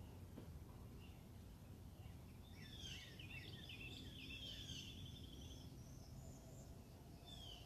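Faint birdsong: quick chirps and a trill in the middle, over a low steady background rumble.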